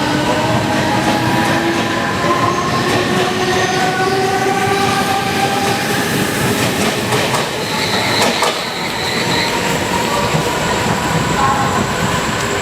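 Mumbai suburban train running at speed: a loud, steady rattle and rumble of the carriage, with several whining tones slowly drifting in pitch and a brief high squeal about eight seconds in.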